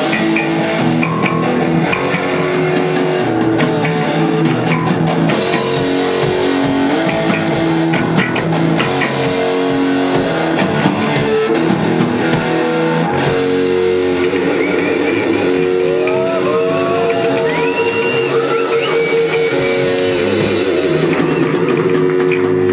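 Rock music: a guitar over a drum kit, with several notes bent upward in pitch in the second half.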